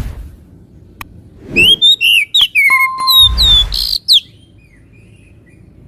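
Oriental magpie-robin (kacer) singing: a loud burst of clear whistles and quick sweeping chirps starting about a second and a half in and lasting some two and a half seconds, with faint chirps before and after. A few sharp clicks and a low rumble of noise are mixed in.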